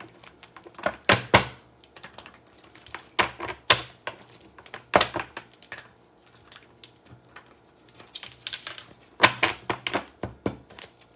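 Tarot deck being shuffled and handled: clusters of quick, sharp card clicks and taps, several bunches a second or two apart.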